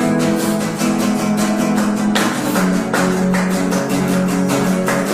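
Acoustic guitar strummed in a steady rhythm, playing the chord intro of a song, with chord changes about one and three seconds in.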